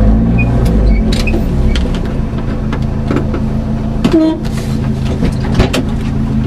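Rally car's engine idling steadily, heard from inside the cabin, a little heavier in the first second. Scattered short clicks and knocks sound over it between about three and six seconds in.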